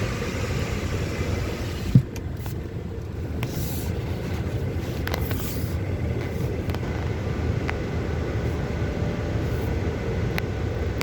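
Low steady rumble of a Honda Accord running, heard from inside the cabin. About two seconds in there is a single sharp thump, after which the outside hiss falls away and only faint scattered ticks remain over the rumble.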